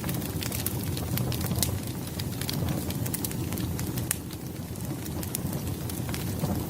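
Wood fire burning, with a steady low rumble of flames and frequent irregular sharp crackles and pops from the burning logs.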